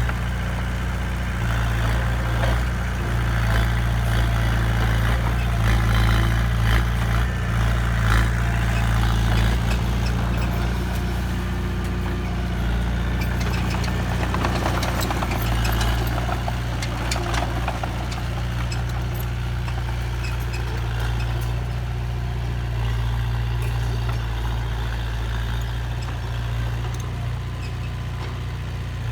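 A large truck engine runs steadily at low revs, giving a deep, even hum.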